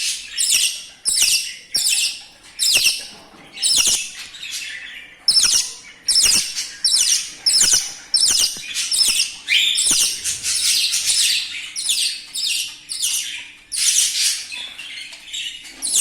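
Hand-reared budgerigar chick giving short, high, falling begging calls over and over, about one and a half a second, the food-begging of a chick still being hand-fed.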